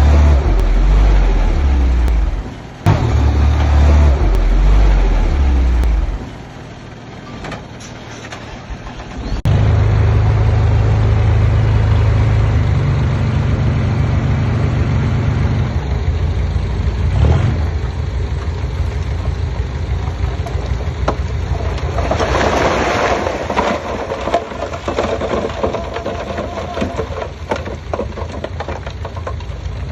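Heavy diesel engines of earthmoving machines running under load, with a deep steady drone. The sound jumps abruptly in level and pitch several times in the first ten seconds, and a rougher, noisier clatter rises over the engine about two-thirds of the way through.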